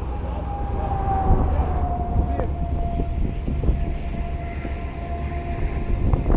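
Outdoor tornado warning siren sounding one long steady tone that sags slightly in pitch, over low wind rumble buffeting the microphone.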